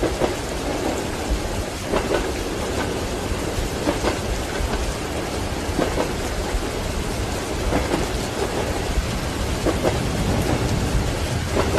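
Steady heavy rain with a low rumble underneath, heard from inside a train compartment. Soft knocks come about every two seconds: train wheels clacking over rail joints.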